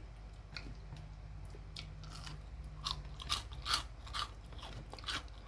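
Close-up chewing and crunching of crisp fried chicken: a run of sharp crackly bites, busiest in the second half, over a faint steady low hum.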